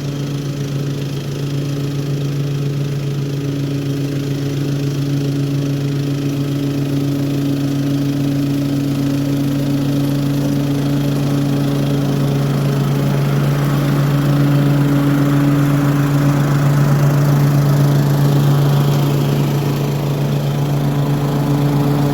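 Toro HDX 30-inch self-propelled walk-behind mower's petrol engine running at a steady speed while mowing with the mulching kit, a constant hum with a little more cutting noise in the middle.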